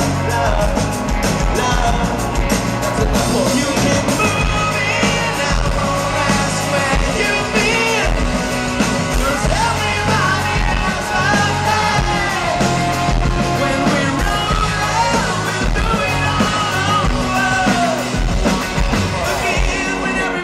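Live rock band with a male lead singer, played loud over a full band backing. The music drops away right at the end.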